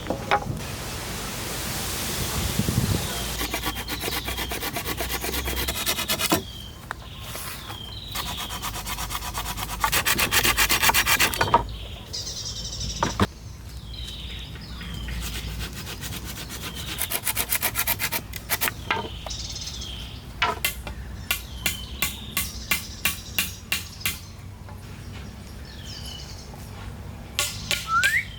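A hand tool rasping on wood in repeated back-and-forth strokes, in dense runs at first and then as regular strokes about two a second in the second half. Small birds chirp now and then.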